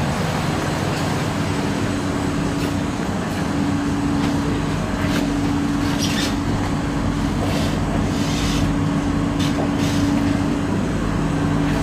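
Singapore MRT train running at a steady pace: a steady electric motor hum over the rumble of the wheels on the rails, with a few light clicks.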